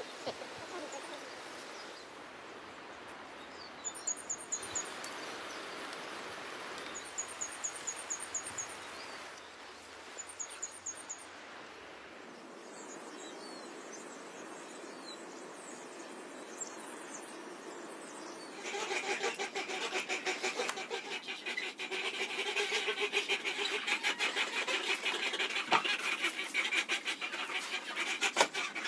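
Birds calling: three short bursts of quick, high, evenly spaced chirps, then, from about two-thirds of the way in, a louder, busy stretch of rapid lower bird calls.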